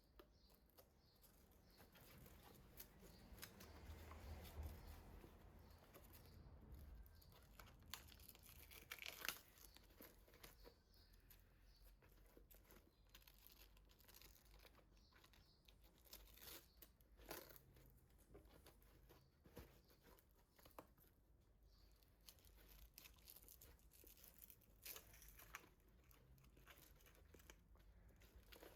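Faint Velcro straps being pulled and fastened, short tearing rasps now and then, with light handling of a fabric bag.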